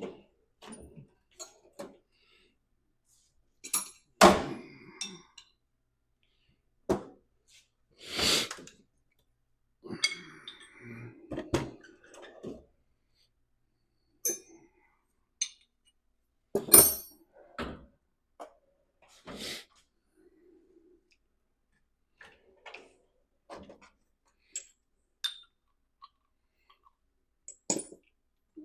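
Steel sockets and hand tools clinking and clattering while the right socket is hunted for and tried on the cam bolt: scattered sharp clinks, with louder clanks about four, eight and seventeen seconds in.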